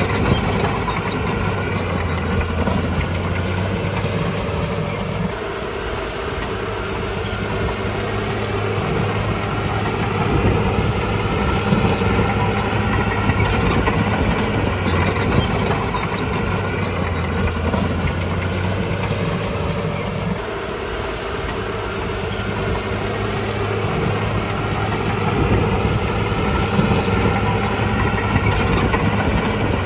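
Bulldozer's heavy diesel engine running steadily under load, easing off twice and building back up, with scattered metallic clicks and clanks.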